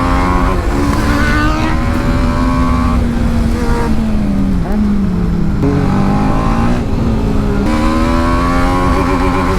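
Sport motorcycle engine, a TVS Apache RR310's single-cylinder, under hard riding on a track. It revs up and drops back at each gear change, falls in pitch as the bike slows through the middle, then pulls up through the gears again, over steady wind rush.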